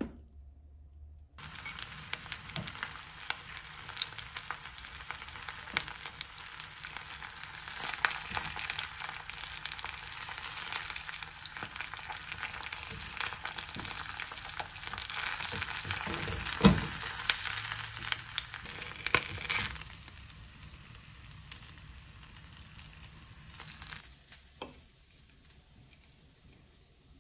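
Stuffed fried tofu pieces sizzling in oil in a rectangular frying pan, a steady crackling hiss with scattered pops and clicks of metal tongs against the pan as they are turned. The sizzling stops about 20 seconds in, and a few light clicks follow.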